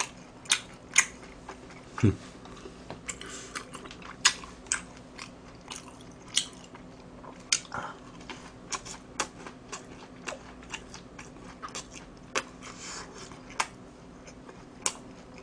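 Close-miked chewing of a crunchy fried cheese ball: irregular crisp crunches and mouth clicks, one to a few a second, over a faint steady hum.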